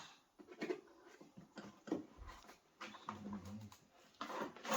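Rustling and light knocks of household objects being lifted and moved, with a brief low murmur about three seconds in and a louder rustle near the end.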